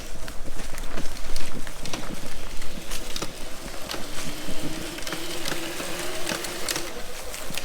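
Razor MX350 electric dirt bike's motor whining, its pitch wavering up and down as speed changes, with scattered clicks and rattles throughout.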